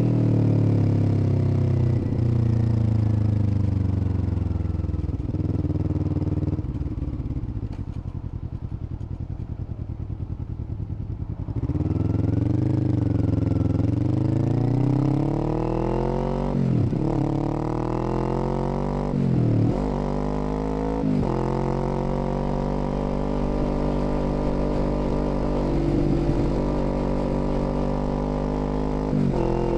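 Kawasaki Z400's 399 cc parallel-twin engine under way: revs fall away and it runs low for several seconds. Then, a little under halfway in, it accelerates with the pitch rising through three quick upshifts before settling into a steady cruise.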